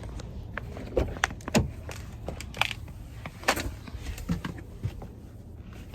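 Irregular clicks and knocks of someone handling things at a car (door, keys, fittings), over a low steady rumble.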